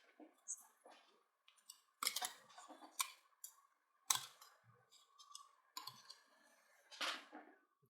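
Irregular clicks and light metallic taps of hand work on a drill motor armature being rewound with copper wire, with a faint steady hum underneath.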